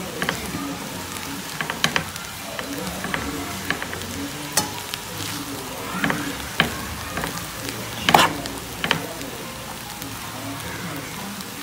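Fried rice sizzling in a frying pan as a spatula stirs and tosses it, with scattered scrapes and taps of the spatula against the pan, the loudest about eight seconds in.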